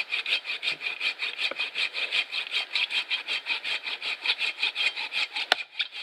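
Fast, even scraping of a striker along a ferrocerium fire-starter rod, about five strokes a second, with one sharp click near the end.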